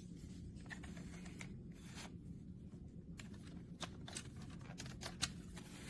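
Faint scattered clicks and light rustles of an object being handled, over a low steady hum.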